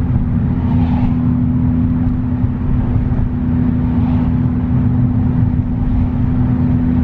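Ford Focus ST's 2.5-litre turbocharged five-cylinder engine droning at a steady cruise, its pitch holding constant, with tyre and road noise, heard from inside the cabin.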